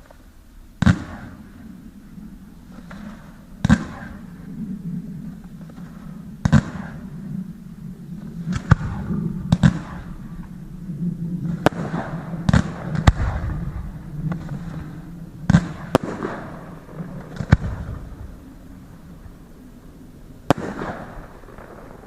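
Fireworks display: about a dozen sharp shell bursts at irregular intervals, with crackling and a low rumble of echo between the bangs.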